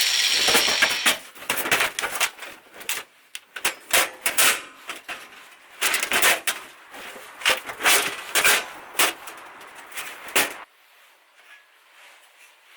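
A loud hiss dies away in the first second, followed by an irregular run of sharp knocks and clatter, like metal pieces being tapped and handled in metalworking, which stops about ten and a half seconds in.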